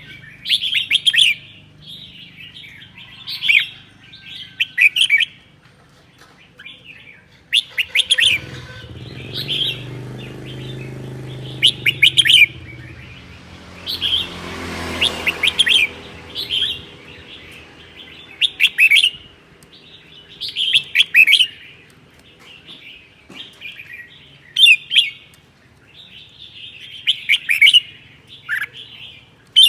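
Red-whiskered bulbul singing in short, bright phrases repeated every second or two. A low rushing noise swells and fades about midway.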